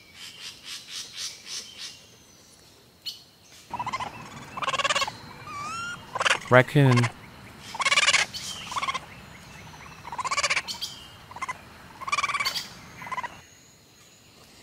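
Raccoon chittering: a series of about eight short, wavering, trilling calls. It is preceded at the start by a quick run of soft puffs from a hedgehog snuffling.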